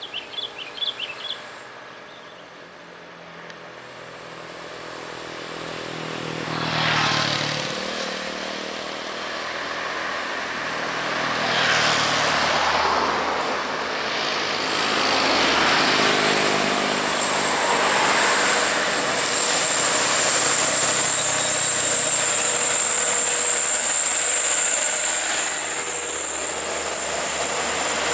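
Road traffic of heavy trucks passing one after another on a hill road, each vehicle's engine and tyre noise swelling and fading as it goes by. A few short high chirps sound right at the start, and a steady high-pitched whine joins about halfway through.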